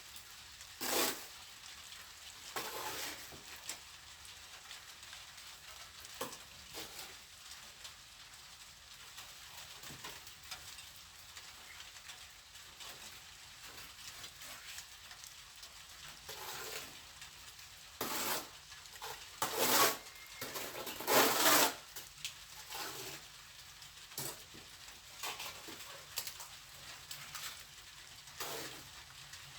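Intermittent scrapes of a plastering trowel working mortar, short strokes separated by quiet gaps, with a cluster of louder strokes about two thirds of the way through.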